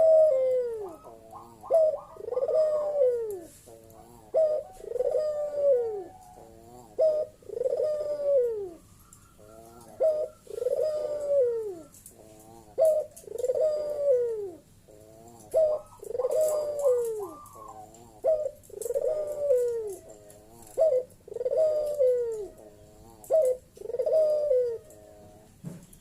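A puter (Barbary dove) cooing over and over, roughly every two seconds: each phrase a short clipped note followed by a longer, loud falling coo. This is the loud 'bekur' call a male gives to challenge rivals.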